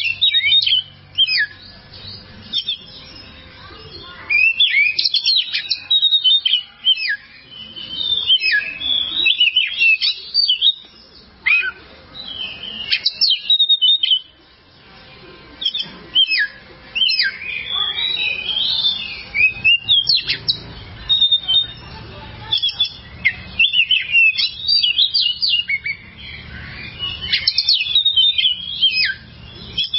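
Oriental magpie-robin (kacer) singing: a loud, varied run of quick whistled phrases with rising and falling sweeps, broken only by short pauses.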